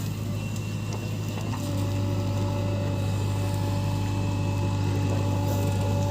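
JCB 3DX backhoe loader's diesel engine running with a steady drone.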